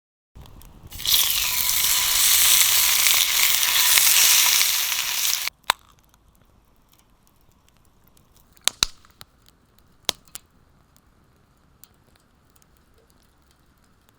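Pork belly sizzling loudly in a hot frying pan, cutting off abruptly after about five seconds. Then a quiet stretch with a few sharp, isolated clicks and pops.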